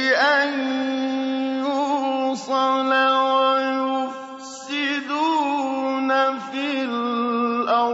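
A man's voice reciting the Quran in a drawn-out melodic chant in maqam Nahawand, holding long notes with wavering ornamental turns and a few brief breaks, and stopping near the end.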